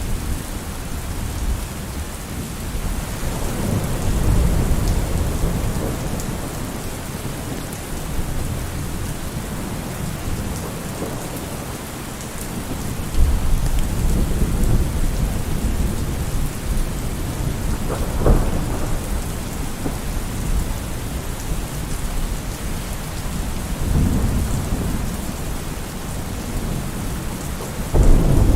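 Steady heavy rain with thunder rolling several times, low rumbles swelling and fading. Near the middle comes a sharper crack of thunder, and a louder rumble breaks in just before the end.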